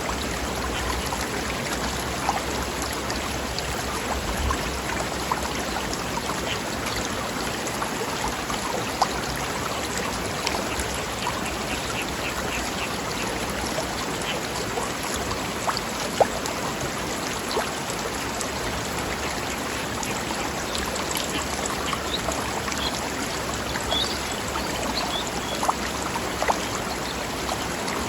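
Forest stream flowing over rocks, a steady babbling and splashing rush of water with small plinks and gurgles through it.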